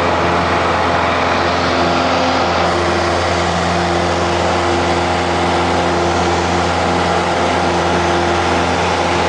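Piper single-engine light aircraft's piston engine and propeller running steadily at takeoff power, a constant drone with no change in pitch or level.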